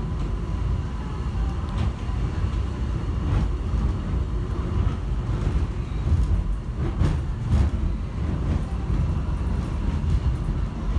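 Underground airport subway train running, heard from inside the car: a steady low rumble with a few brief knocks and rattles.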